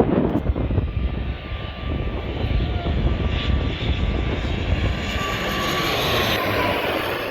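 Airliner passing low overhead on its approach to land: a steady engine rumble with a thin whine that swells, peaks about six seconds in and drops slightly in pitch as it goes by.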